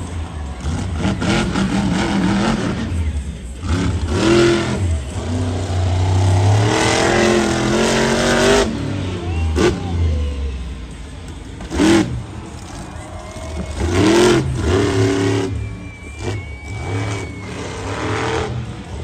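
Monster truck's supercharged big-block V8 revving hard up and down over and over, with a sharp bang about twelve seconds in.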